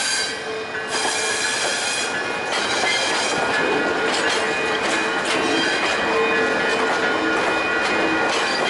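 VIA Rail passenger train rolling past, its wheels clicking steadily over the rail joints, with several high steady tones of wheel squeal over the rumble.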